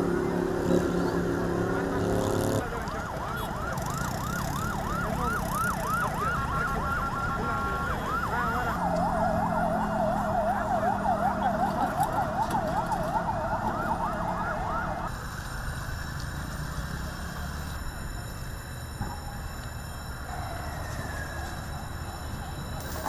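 Emergency vehicle sirens wailing in fast rising-and-falling cycles, about three a second, with two sirens overlapping. They start a couple of seconds in after a steady pitched drone and stop about fifteen seconds in, leaving general street noise.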